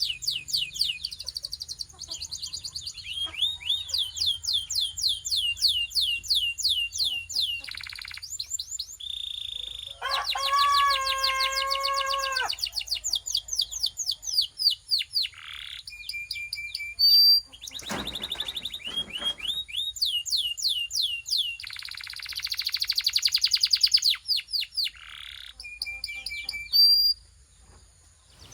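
Belgian canary singing a long song of fast trills and repeated high notes. About a third of the way in comes a lower, held passage lasting a couple of seconds, and there is a brief click around two-thirds of the way through. The song stops about a second before the end.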